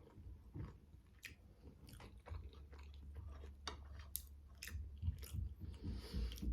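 Close-miked chewing of manti (steamed meat dumplings), with many short wet mouth clicks scattered through, over a steady low rumble.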